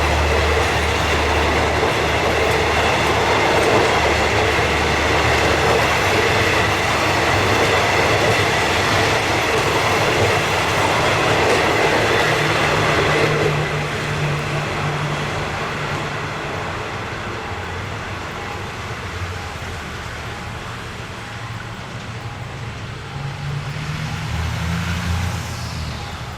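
Passenger train of former Japanese blue-train coaches rolling on the rails, a steady rumble with a high wheel whine. About halfway through the sound drops off and it runs on more quietly, swelling briefly near the end.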